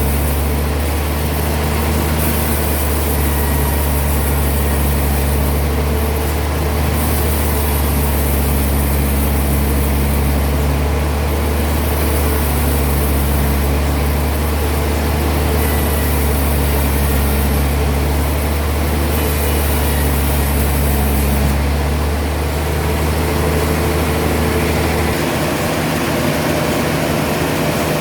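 Heavy sawmill machinery running steadily: a loud, deep engine-like drone with a noisy hiss above it. The deepest part of the drone drops away near the end.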